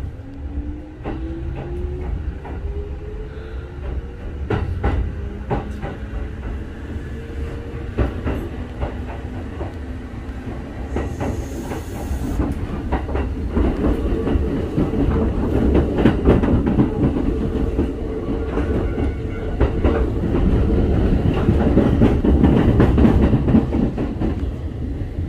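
Kintetsu 5211 series express train pulling away, heard from inside the car. A motor whine rises in pitch over the first few seconds, then the wheels click over rail joints and the running noise grows louder as the train gathers speed.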